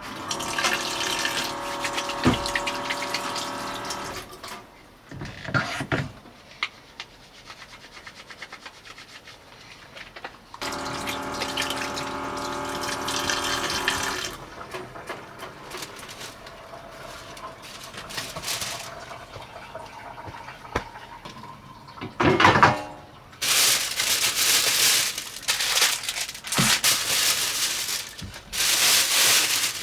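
Water running and being poured into a container in several separate runs. The first two runs have a pitched ring as the vessel fills, and the later runs are a louder hiss, with a few light knocks between them.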